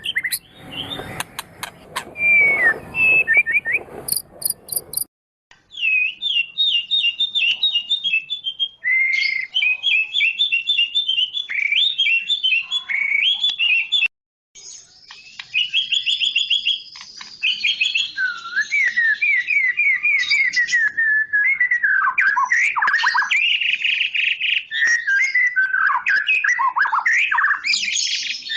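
White-rumped shama (murai batu Medan) singing a long, varied song of whistled phrases and quick trills. A rustling noise runs under the first few seconds, and the sound cuts out briefly twice.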